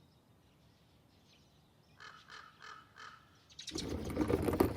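A crow cawing several times in quick succession, starting about two seconds in, after near silence. Near the end a louder rushing noise sets in.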